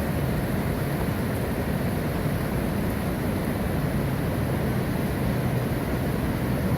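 Water pouring over a small river waterfall, a steady, even, deep rush.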